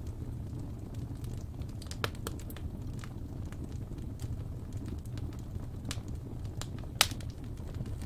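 Wood fire in a fireplace crackling, with a steady low rumble of flame under scattered sharp pops and snaps; the loudest snap comes about seven seconds in.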